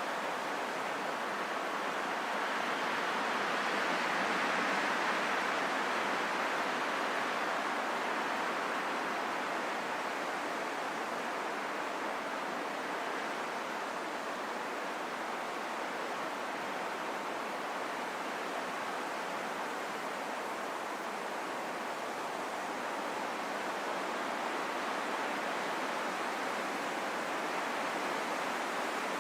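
Steady rain falling in a forest, a continuous even hiss with no distinct drops standing out, swelling slightly a few seconds in.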